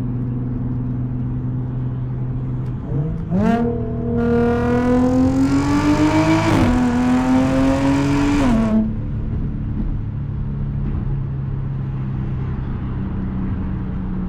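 Audi S4's supercharged V6 with an aftermarket touring exhaust: it cruises with a steady drone, blips briefly, then accelerates hard with a rising engine note. Near the middle the pitch drops for a gearshift, climbs again, then falls back to the cruising drone as the throttle is lifted.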